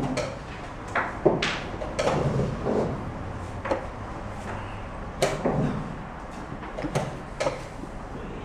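Chess pieces being set down on the board and chess clock buttons being pressed in quick succession during a rapid game: about nine sharp clicks and knocks at irregular intervals, some coming in quick pairs.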